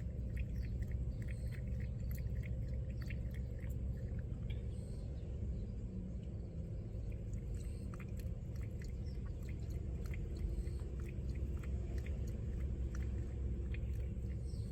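A cat feeding close to the microphone: irregular small wet clicks from its mouth, over a steady low background hum.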